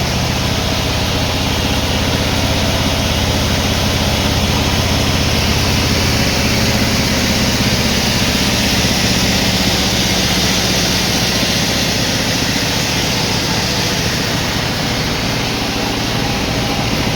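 Sawmill machinery running steadily and loudly: a low motor drone under a dense hiss that holds even throughout.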